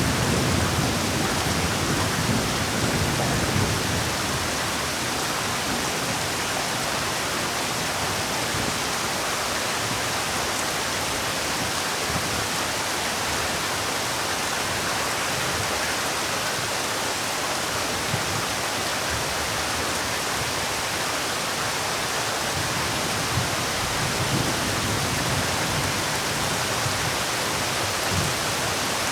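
Steady heavy rainfall: a dense, even hiss with a few individual drops ticking louder. A low rumble swells briefly at the start and again near the end.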